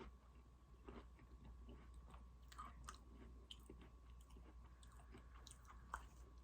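Faint close-miked chewing of Oreos, with scattered small crunches and wet mouth clicks.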